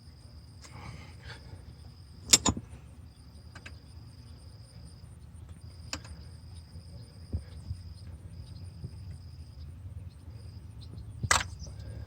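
A few sharp clicks and knocks as an alternator's plastic plug connector is handled and pushed on, its locking pin not latching; the loudest knock comes about two seconds in, another just before the end. A high steady tone comes and goes underneath.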